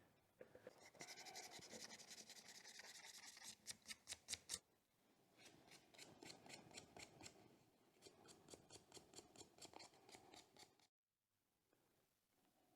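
Faint hand rubbing or abrasive scrubbing on the old barrel knife to clear grime and crust: quick back-and-forth strokes for about four seconds, a brief pause, then steady strokes a few times a second that stop shortly before the end.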